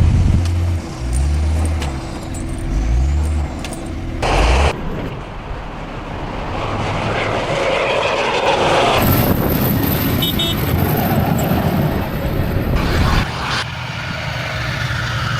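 Heavy vehicle engines running, with the sound changing abruptly several times as one clip cuts to another.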